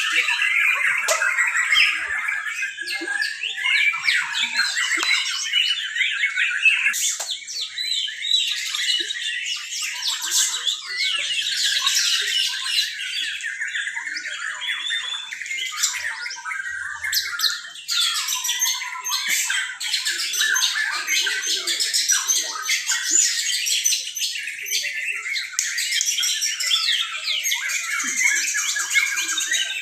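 Many white-rumped shamas singing at once: a dense, unbroken tangle of overlapping whistles and trills.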